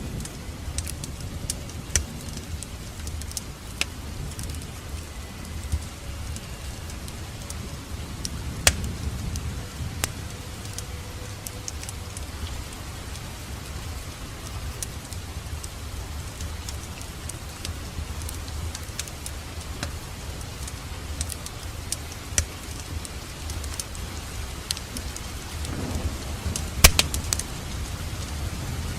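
Wood fire in a fireplace crackling: a steady low rumble of burning with scattered sharp pops and snaps, and a quick cluster of louder pops near the end.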